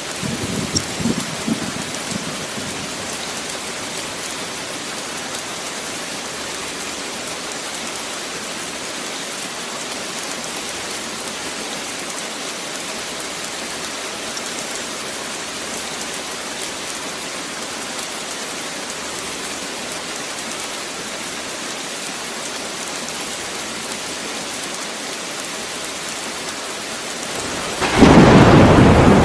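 Steady rain, with a short low rumble of thunder at the start and a loud roll of thunder breaking in near the end.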